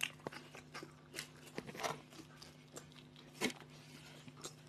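Faint chewing and biting of toasted sandwiches close to the microphone: scattered small crunches and mouth clicks over a steady low hum.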